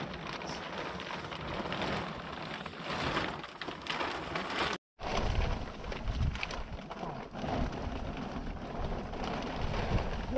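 Steady rain falling, an even hiss that cuts out completely for a moment about halfway through, with more low rumble after the break.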